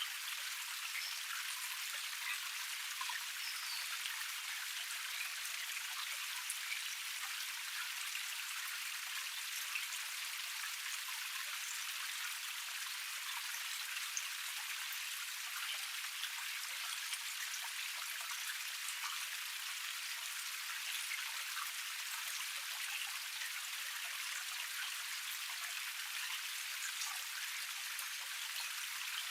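Water of a small forest cascade spattering and flowing over rocks: a steady, even splashing hiss with many small droplet splashes and no low rumble.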